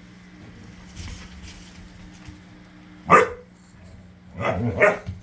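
A dog barking: one sharp bark about three seconds in, then two more in quick succession near the end.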